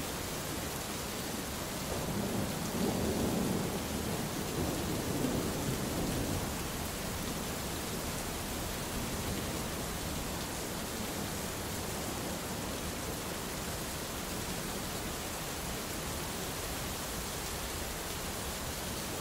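Steady rain falling during a thunderstorm, with a low rumble of thunder that swells about two seconds in and fades out by about six seconds.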